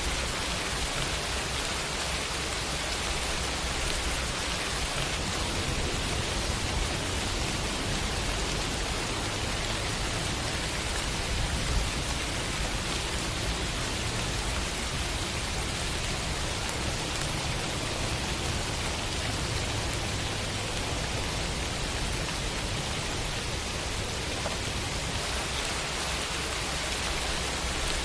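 Steady rain falling, an even hiss with no breaks, over a low rumble that swells through the middle.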